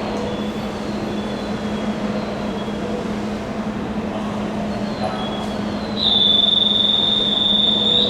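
Train at a station platform with a steady low hum. About six seconds in a loud, steady, high-pitched wheel squeal sets in.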